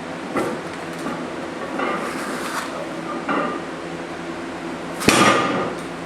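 Metal gym weights clanking: a few sharp knocks, the loudest about five seconds in with a short ring after it.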